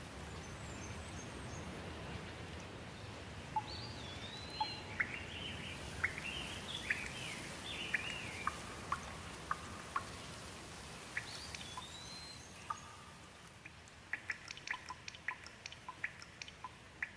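Steady rain with a bird singing over it: a run of whistled notes that slide up and down. The rain eases a few seconds before the end, and a quick series of short sharp ticks follows.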